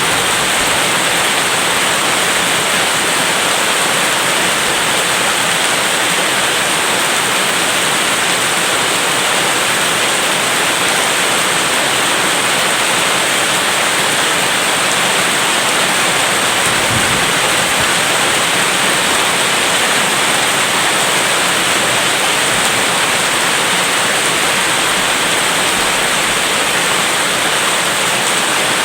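Steady heavy rain: a loud, even hiss with no breaks.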